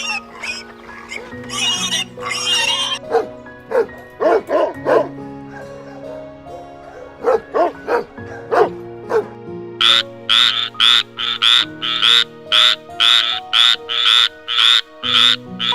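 Animal calls over background music with long held notes: a few short pitched calls in the first half, then a fast, regular run of harsh calls, about two a second, near the end.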